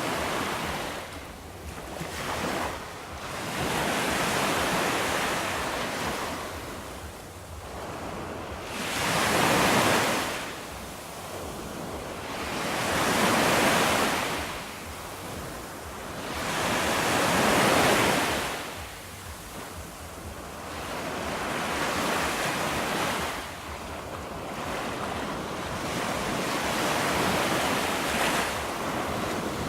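Ocean waves breaking and washing in, rising and falling in surges every few seconds, with three louder breakers in the middle.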